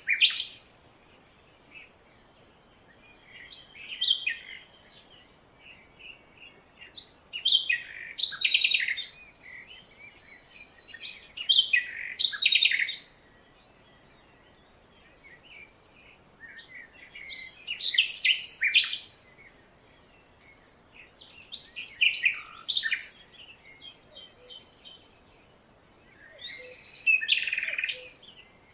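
A bird singing short, chirpy phrases about every three to four seconds, with brief quiet gaps between them.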